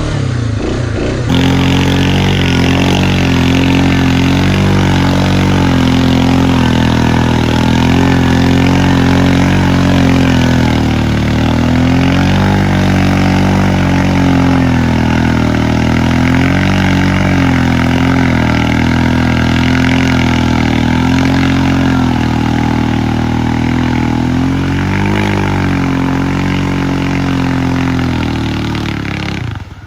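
Off-road vehicle engine running and revving continuously, its pitch rising and dipping as the throttle is worked. The sound jumps louder about a second in.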